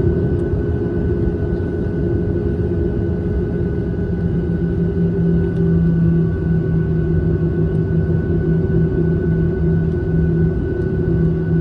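Airliner engines running steadily, heard inside the passenger cabin: a loud, even drone with a low hum and a thin higher whine held over it.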